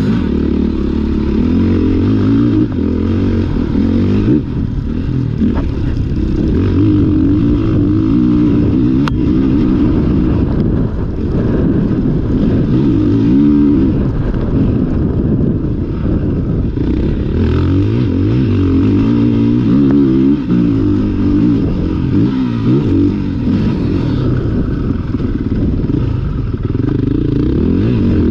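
Motocross dirt bike engine being ridden hard, revving up and down over and over as the rider accelerates and backs off through the laps, heard close from an onboard GoPro.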